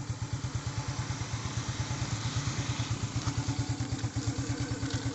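Motorcycle engine idling steadily, with an even low pulse of about eight beats a second.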